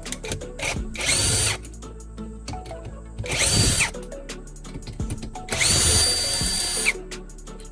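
A handheld power tool runs in three short bursts, each with a steady high whine that winds down as it is released; the last burst is the longest. Background music plays underneath.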